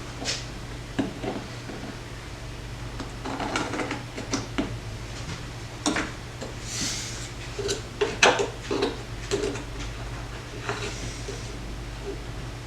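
Scattered knocks and clatter of tools and wood being handled on a workbench, with a short hiss about seven seconds in. A steady low hum runs underneath.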